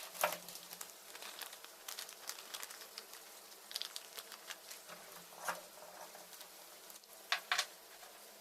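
Scattered light clicks, taps and brief scrapes of small metal parts and hand tools being handled, with the loudest click near the start and two sharp taps close together near the end. A faint steady hum lies underneath.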